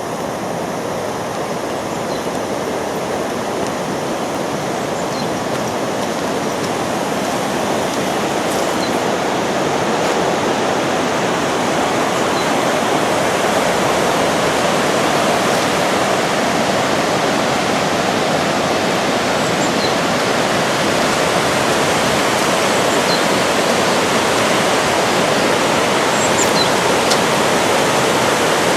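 Steady rushing of running water, slowly growing louder.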